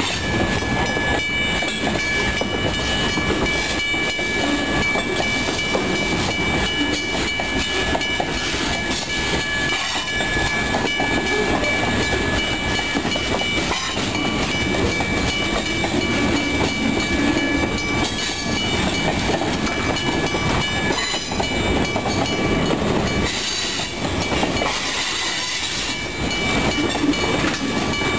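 Train cars rolling past with a continuous rumble and clatter of wheels on rail, a thin steady high whine running over it.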